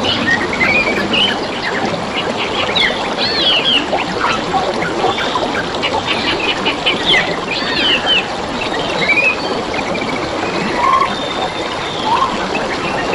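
Many wild birds chirping and twittering in a dense, overlapping chorus of short, quick notes and slurred whistles, over a steady rush of trickling, flowing water.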